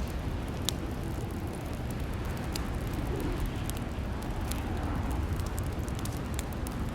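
Fireplace fire crackling: scattered sharp pops and snaps at irregular intervals over a steady low rumble.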